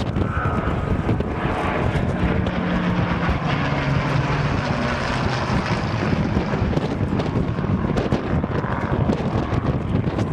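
An aircraft's engine flying past, its pitch dropping in the middle of the passage, heard under heavy wind buffeting on the microphone.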